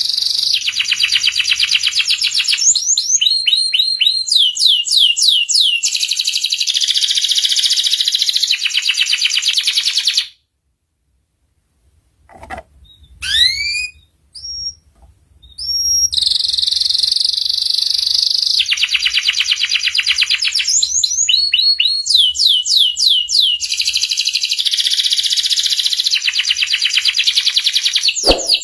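Domestic canary singing: long, rapid rolling trills alternating with runs of repeated sweeping whistled notes. About ten seconds in the song stops for a few seconds of silence and scattered short chirps, then starts again.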